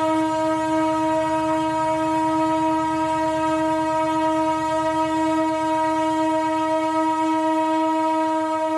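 Locomotive horn of an arriving passenger train, one long unbroken note held throughout, over the low rumble of the train.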